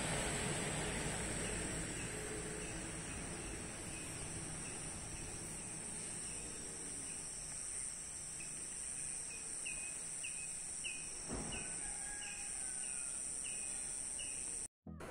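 A bird calling a long, evenly spaced series of short down-slurred notes, over steady outdoor ambience with a high-pitched hiss. A single soft knock comes about three-quarters of the way through.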